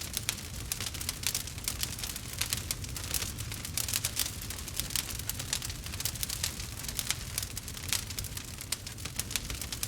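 Campfire crackling and popping steadily, dense irregular snaps over a low rumble of burning wood.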